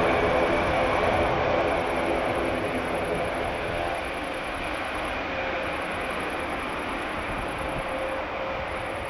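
Airbus A400M's four turboprop engines running, a steady drone with a propeller hum that fades gradually as the aircraft draws away.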